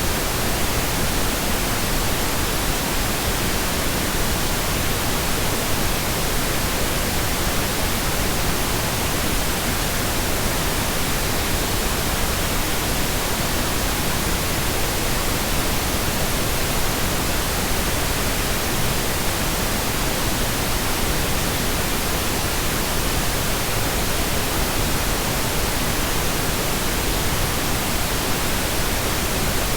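Steady pink noise: an even, unchanging hiss across the whole range.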